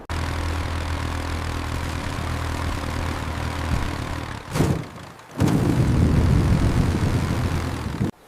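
Engine sound effect running with a steady low hum. About halfway through there is a brief loud swell, then the engine runs louder and rougher until it cuts off suddenly near the end.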